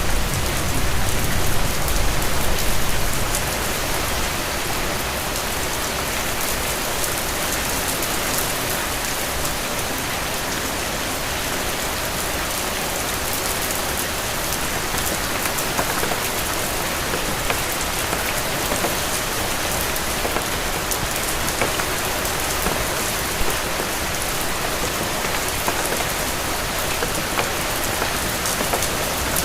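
Steady rain falling, a dense hiss with many individual drops ticking through it. A low rumble under the rain for the first few seconds fades away.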